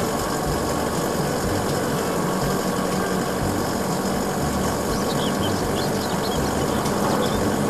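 Isuzu aerial work platform truck's engine running steadily as its hydraulic boom raises the platform, with a steady low hum throughout.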